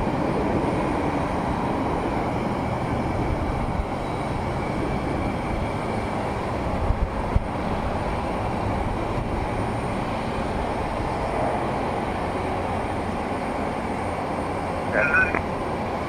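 Steady roar of jet aircraft engines at an airport, without a break, with a short high chirp about fifteen seconds in.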